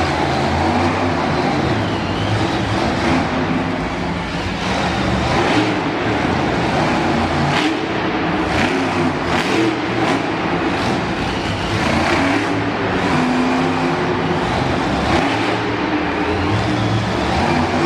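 Monster truck engine running and revving repeatedly, rising and falling in pitch.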